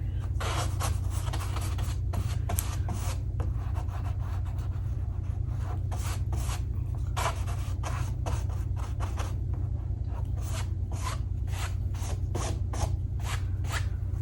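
Paper being torn and handled: a string of short, irregular rips and rustles, over a steady low hum.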